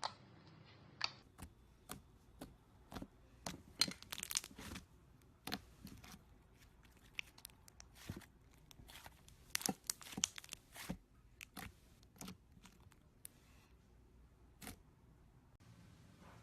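Slime being squeezed and worked by hand, giving irregular sharp pops and crackles, thickest in two flurries, that stop shortly before the end.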